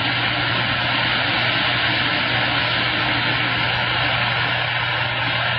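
CB radio receiver hissing with open-channel static, with a steady low hum underneath and no station coming through.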